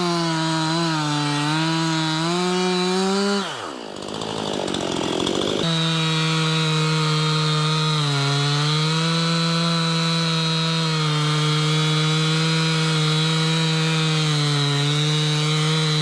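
Two-stroke chainsaw running hard while bucking a white oak log, its pitch wavering slightly under load. About three and a half seconds in the pitch drops sharply, and near six seconds it is back at a steady high speed.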